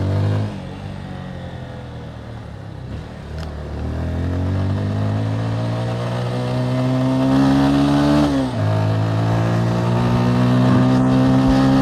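Motorcycle engine heard from the rider's seat, easing off just after the start, then pulling up through the revs, dropping sharply at a gear change about eight and a half seconds in and climbing again. Steady wind and road noise underneath.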